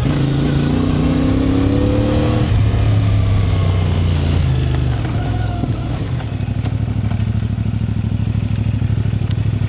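Small vehicle engine running, its pitch rising over the first couple of seconds and then easing off. About six seconds in it drops to a steady, rapidly pulsing idle.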